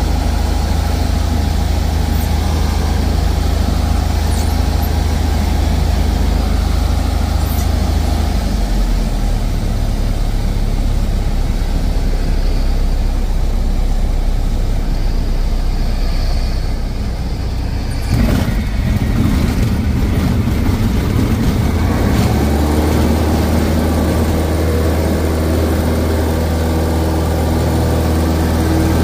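Cessna 172's piston engine and propeller droning inside the cabin over steady air noise. The engine note shifts lower about a third of the way in, dips briefly just past halfway with a short rattle, then settles into a steady note again near the end.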